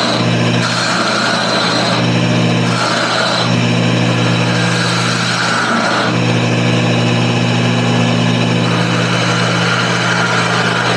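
Wood lathe running with a steady motor hum, while a turning tool cuts the spinning wood of a toy top and adds a hiss that comes and goes every second or two.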